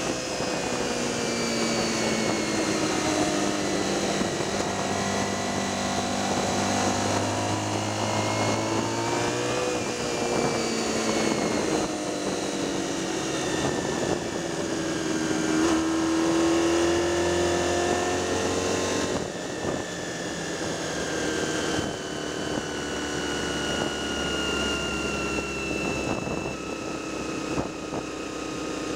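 Racing motorcycle engine at full race pace, heard onboard: the engine note climbs and falls as the rider works through the gears, with marked drops about ten and nineteen seconds in, over a steady rush of wind.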